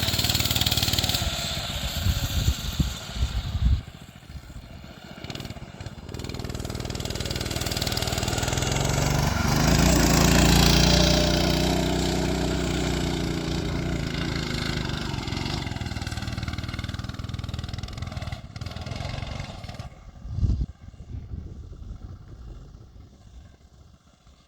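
Coleman B200 mini bike's single-cylinder four-stroke engine running under load on a hill climb, its clutch engaged. Its pitch and level rise to a peak about ten seconds in, then fall away and fade near the end, with a brief thump.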